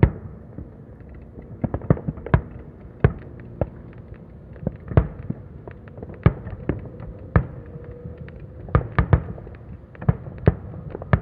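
Fireworks going off: a run of sharp bangs at irregular intervals, sometimes two or three close together.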